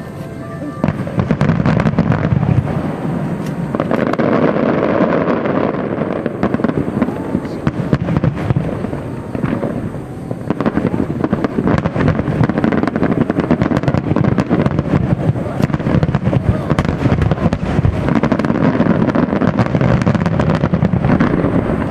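A fireworks display firing a dense, continuous barrage of shell bursts and crackles, with a brief lull about ten seconds in.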